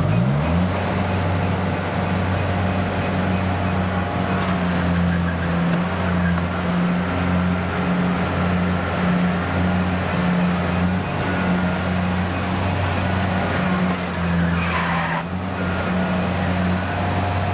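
Diesel engine of farm machinery revving up at the start and then held at high revs as a steady, loud drone, straining to pull a tractor mired in mud.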